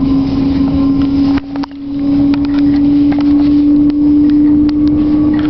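Passenger train running at speed, heard from inside the carriage: a steady motor hum that slowly rises a little in pitch over the low rumble of the wheels, with a few light clicks and a brief dip about a second and a half in.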